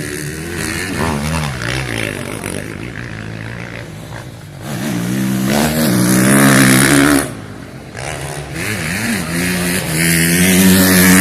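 Motocross bike engine revving, rising and falling in pitch as it is ridden, with two loud, long pulls on the throttle, about halfway and near the end; the first cuts off sharply.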